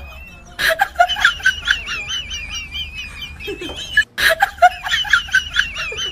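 A bird giving high, warbling calls in quick repeated bursts that sound like laughter, with a short sharp noise about half a second in and another about four seconds in.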